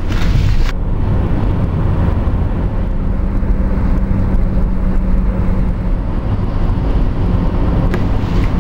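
Steady low rumble of road and engine noise from a moving car, with a steady hum for a few seconds in the middle.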